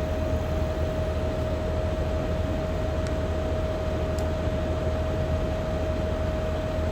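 Caterpillar D6R XL bulldozer's diesel engine running steadily, a constant drone with a steady whine over it.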